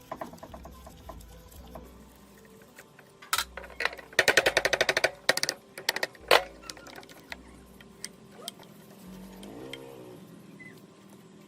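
Scattered clicks and knocks of work on metal parts, with a quick rattling run of about ten strokes around four seconds in and a single sharp knock shortly after.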